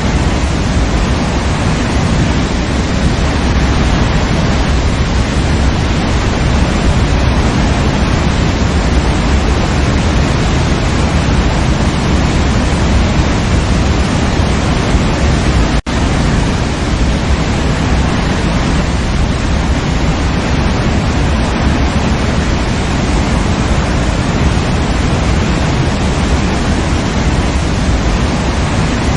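Waterfall: water falling and rushing in a steady, loud, unbroken roar, with a split-second dropout about halfway through.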